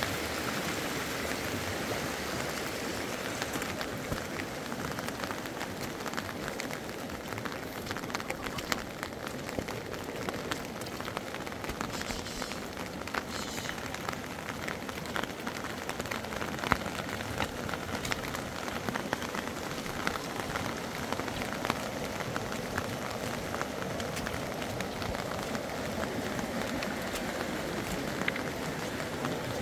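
Steady rain: an even hiss with many separate drop taps on a surface.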